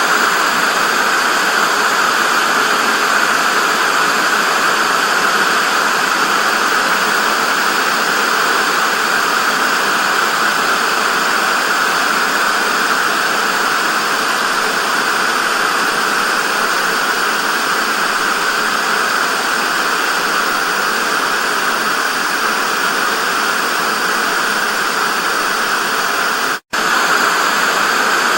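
Television static: a steady, bright hiss with little low end. It cuts out for a split second about 27 seconds in.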